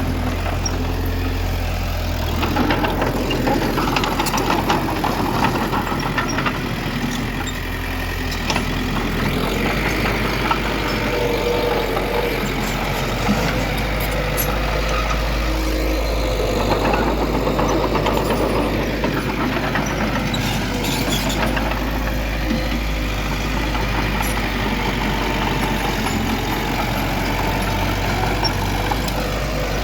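Heavy diesel engine of earthmoving machinery running steadily, with a few short knocks mixed in.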